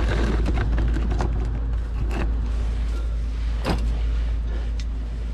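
A few short clicks and knocks of parts and tools being handled while working exhaust hangers loose, the loudest a little under four seconds in, over a steady low rumble.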